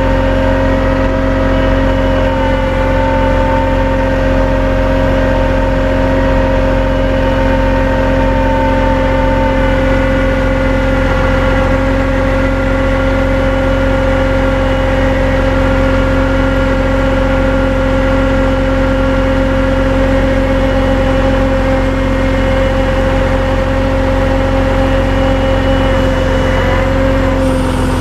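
Tow truck engine running steadily with a steady whine over it while the truck winches a stuck pickup out of a ditch.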